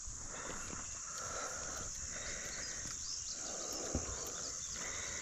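Steady high-pitched insect chorus, with a soft sound repeating about once a second and a faint knock about four seconds in.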